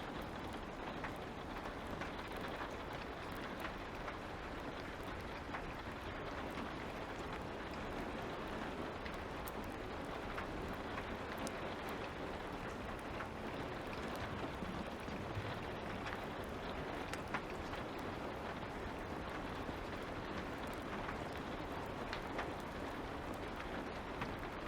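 Steady light rain, with scattered faint crackles from a wood fire.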